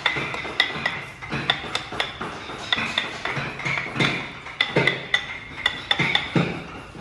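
Irregular knocks and metallic clinks, roughly two a second, each with a short ringing tone, some with a dull low thud beneath.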